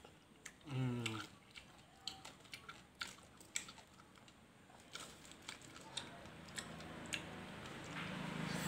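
A person chewing papaya salad, with sharp irregular clicks of wooden chopsticks on the foam box and its plastic liner, and a short voiced "mm" about a second in. A low steady hum comes up in the second half.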